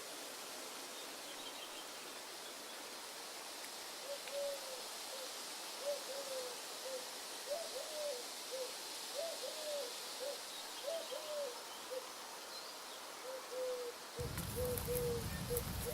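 A bird hooting: a long series of short, low notes starting about four seconds in, over a steady high hiss. Near the end, a louder crackling, rustling noise comes in.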